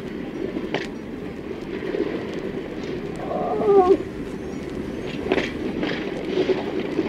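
Animal calls over a continuous noisy background. One pitched call falls in pitch about halfway through, and several short sharp sounds come in the second half.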